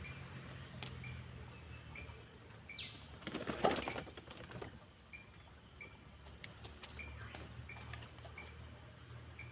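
A bird repeats a short, high chirp every second or so over a low steady hum. A brief burst of rustling noise about three and a half seconds in is the loudest sound.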